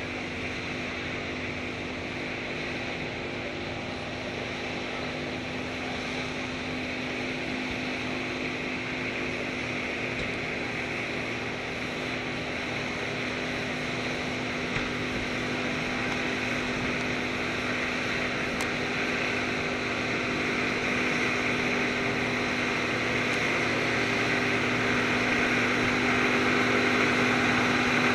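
A vehicle engine running at a steady speed, with an even hum that slowly grows louder.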